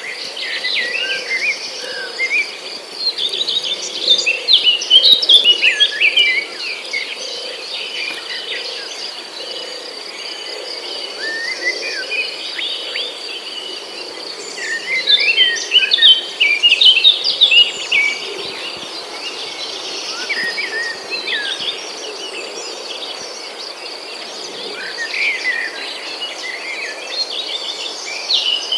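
Several songbirds chirping and twittering over a steady high insect trill. The bird song comes in busy spells, the loudest a few seconds in and again about halfway through.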